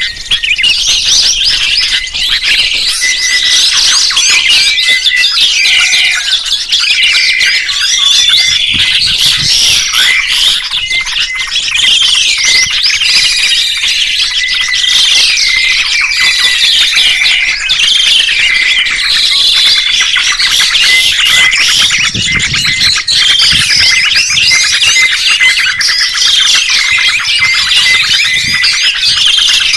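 Several songbirds chirping and trilling at once, a dense, loud chorus of quick rising and falling calls that never pauses, with one short note repeated over and over beneath it.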